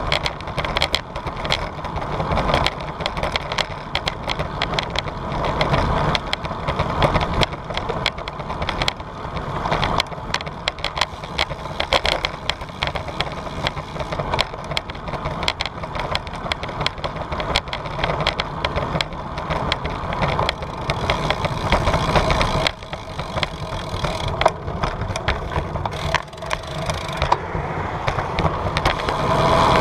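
Bicycle ride picked up by a camera on the bike: a constant, dense rattling and clicking over steady rolling noise, with two brief drops in level in the last third.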